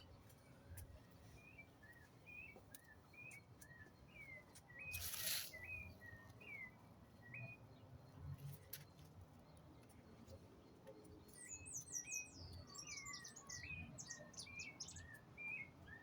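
Small birds chirping faintly: short, repeated chirp notes throughout, joined about eleven seconds in by a flurry of higher, quicker chirps. A brief rush of noise about five seconds in is the loudest moment.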